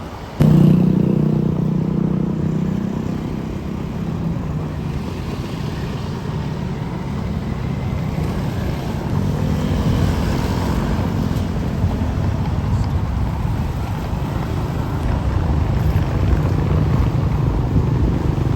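Road vehicle engines passing close by in traffic: one comes in suddenly and loud about half a second in and fades away, and another builds up again about ten seconds in.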